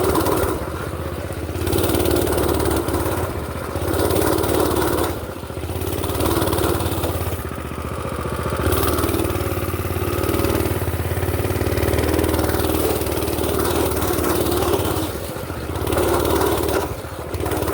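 Mini bike's small engine running as it is ridden, the throttle opening and easing off again and again, so the engine note swells and drops every second or two.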